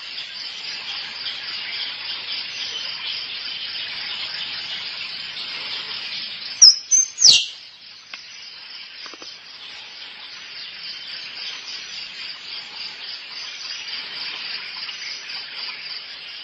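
Squirrel calls, used as a mating-call lure: a quick cluster of three loud, sharp calls sliding down in pitch about seven seconds in, over a steady high chirring.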